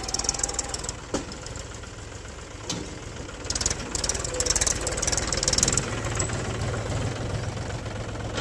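Mahindra tractor's diesel engine running steadily with a fast, even low chug, with a couple of sharp knocks about a second in and just before three seconds.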